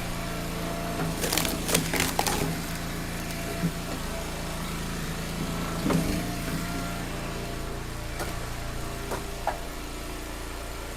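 Log splitter's engine running steadily while a round of firewood cracks and splinters apart about a second or two in, followed by a single knock of wood a few seconds later.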